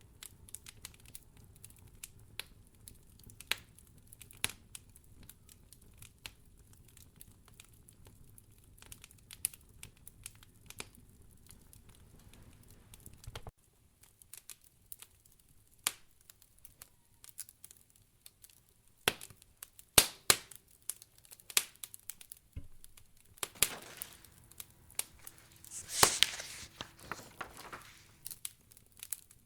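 Wood fire in a fireplace crackling, with irregular sharp pops that grow louder and more frequent in the second half. A low rumble underneath cuts out about halfway through, and a brief rushing noise swells up near the end.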